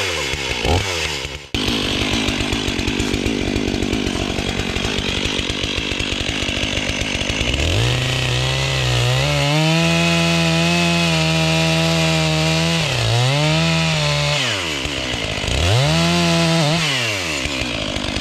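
Stihl 500i fuel-injected two-stroke chainsaw idling, then revved up to a high, steady pitch for about five seconds. The revs dip and climb again twice before falling back near the end.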